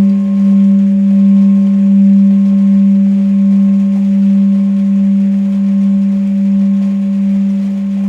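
Tibetan singing bowl sounding a steady, deep hum that wavers in a slow pulse, with fainter higher overtones ringing above it. It holds its loudness without dying away, as a bowl being rimmed does.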